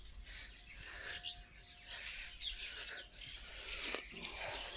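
Birds chirping faintly in the background, with many short, high calls scattered throughout, and a brief click about four seconds in.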